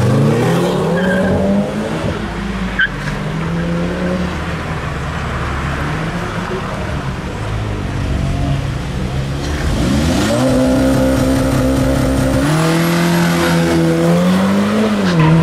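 Car engines pulling away hard: an Audi TT's engine revs up as it leaves at the start. From about ten seconds in, a VW Golf's engine climbs in pitch, steps higher and then drops off near the end, with a thin high whine over it.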